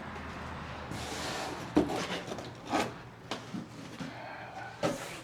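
Footsteps and scuffs across a bare wooden floor, with a few short knocks spaced about a second apart.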